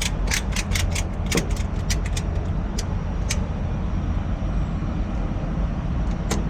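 Heavy truck diesel engine idling with a steady low rumble, with a quick run of sharp metallic clicks and clanks in the first few seconds and one more near the end.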